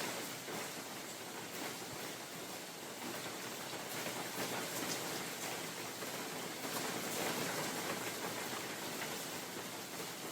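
Steady spring rain falling in a forest, a constant hiss with many single drops tapping on leaves and other surfaces.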